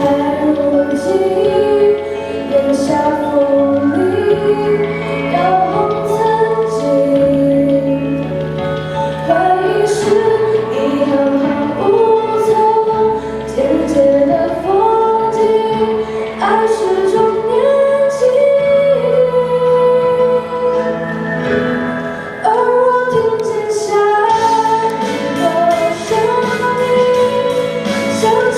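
A solo singer performs a Mandarin pop ballad over an instrumental accompaniment, with a sustained, wavering vocal melody.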